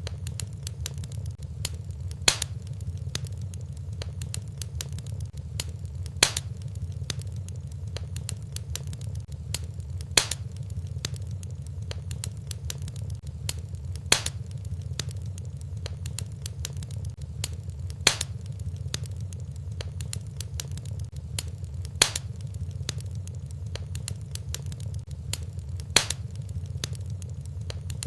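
Fireplace fire crackling over a steady low rumble, with many small snaps and a sharper, louder pop about every four seconds.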